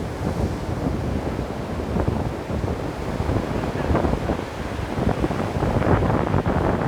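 Ocean waves breaking on a beach, with a steady low rush of surf and crackling spray, along with wind buffeting the microphone.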